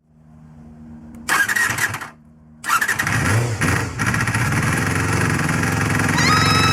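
Honda Jade motorcycle's 250cc inline-four engine being started: a brief first burst that dies, then it catches about two and a half seconds in and keeps running. A high tone rises in near the end.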